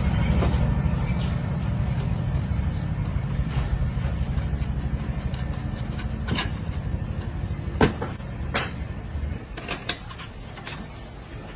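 A low, engine-like rumble that fades gradually, with several sharp knocks or clicks in the second half.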